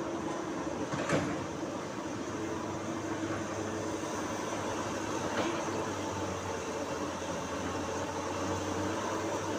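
Heavy diesel machinery running steadily, with a sharp knock about a second in and a fainter knock about five seconds in.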